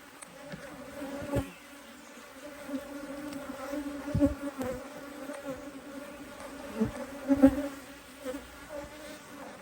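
A honeybee colony buzzing steadily in an opened hive, a low hum. A few dull knocks come through, about one and a half, four, seven and seven and a half seconds in.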